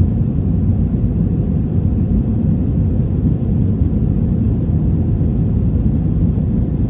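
Airbus A321-200 cabin noise from an economy window seat: a steady, loud low rumble of the jet engines and airflow, holding even throughout.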